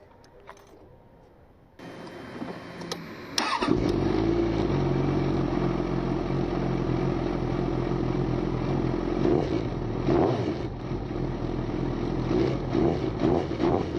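2008 Suzuki GSX650F inline-four cranking briefly and firing up from cold about three and a half seconds in, through a Delkevic slip-on exhaust with its baffle removed. It then idles steadily with a little bass to it, with a few short throttle blips in the second half.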